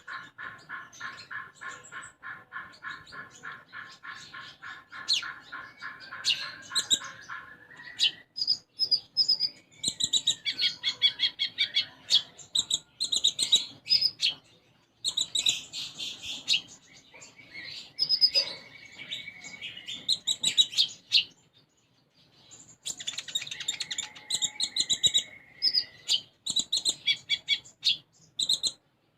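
A konin songbird singing hard. It opens with a fast run of evenly repeated notes, then switches to bursts of varied, high chirping phrases with short pauses between them. The song is filled with tree sparrow imitations.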